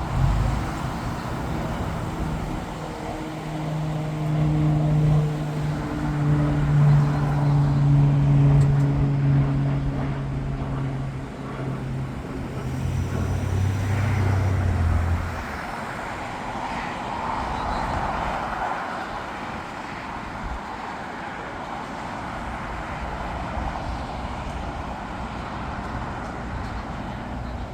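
Outdoor traffic noise with a vehicle engine's steady low hum, louder for the first half and dropping in pitch before fading about fifteen seconds in.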